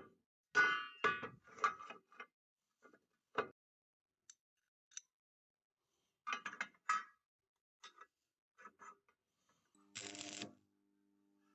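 Sharp metal clanks and knocks, several in quick succession near the start and again midway, some ringing briefly; near the end a short hiss with a steady low hum.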